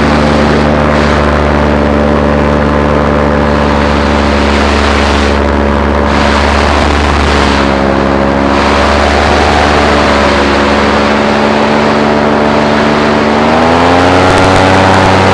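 Paramotor engine and propeller running steadily under power, with wind rushing past. The engine note dips a little midway, then rises as the throttle is opened near the end.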